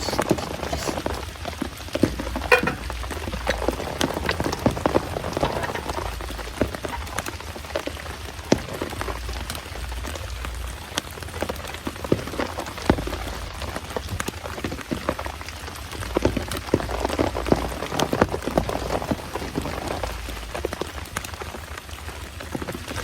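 Heavy rain falling steadily, with many sharp individual drop hits standing out from the downpour.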